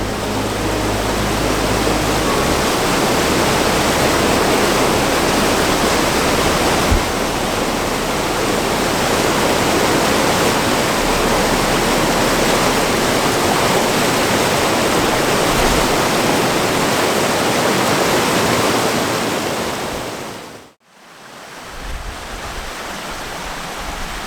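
A waterfall rushing steadily, running full of water after rain. About twenty seconds in the sound fades out almost to nothing for a moment, then comes back quieter.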